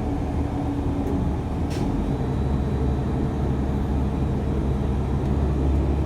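Steady low rumble of a TTC transit vehicle in motion, heard from inside among the passengers, with a faint steady high whine.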